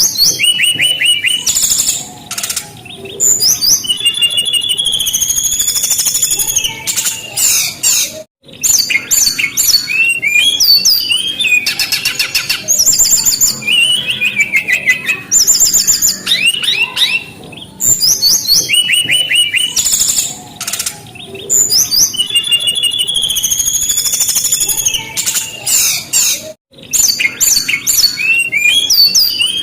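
Brown-chested jungle flycatcher singing vigorously: a continuous run of rapid, varied high-pitched whistles, trills and chirps, broken by two very brief gaps.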